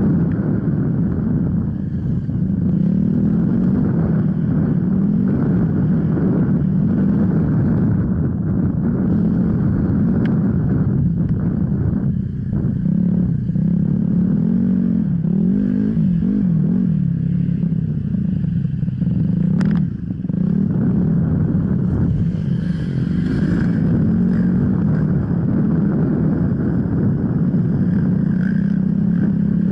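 Off-road motorcycle engine running continuously as the bike is ridden, its revs rising and falling with the throttle. There is a brief drop in level with a sharp click about two-thirds of the way through.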